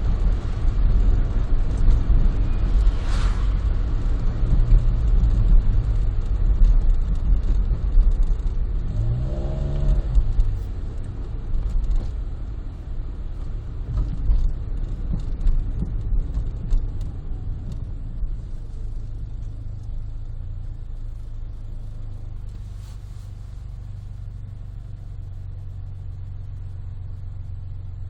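Honda Life JB5 kei car with an aftermarket Rosso Modello GT-8 muffler, heard from inside the cabin with a window open while driving: low exhaust and road rumble. There is a brief rising rev about a third of the way through. The rumble then eases off and settles into a steadier low hum near the end.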